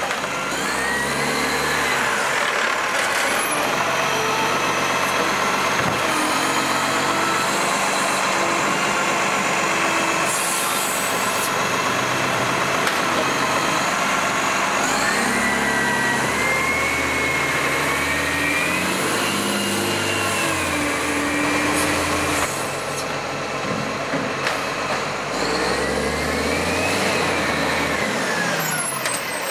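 Garbage truck with a MacDonald Johnston GenV side-loader body at work: its diesel engine running and revving, with a hydraulic whine that rises and falls three times as the lift arm cycles, and a short hiss of air about ten seconds in.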